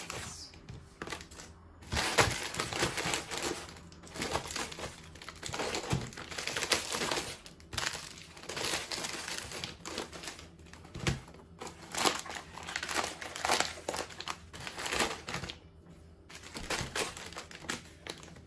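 Plastic food packaging crinkling as it is handled, with a few light knocks along the way.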